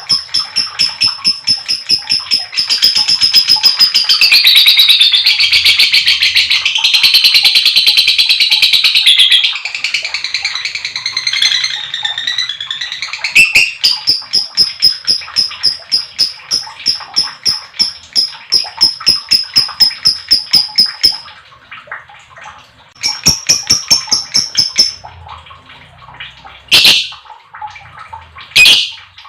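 Lovebird giving a long, rapid chattering trill (the 'ngekek panjang' call), louder and denser for several seconds near the start. It breaks off about two-thirds of the way through, then comes back as a short burst of chatter and a few sharp single calls near the end.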